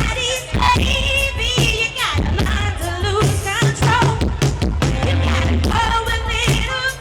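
Live rock band in concert: a female lead singer holding wavering notes over a steady, heavy bass and drum beat.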